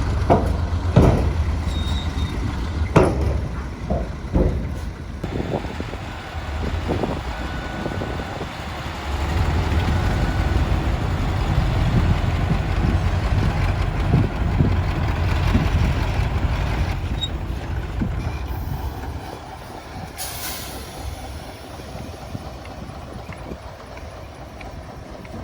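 Hyundai dump truck's diesel engine running with a heavy low rumble, with several loud clunks and knocks in the first five seconds. A short hiss of air comes about twenty seconds in, after the rumble has dropped away.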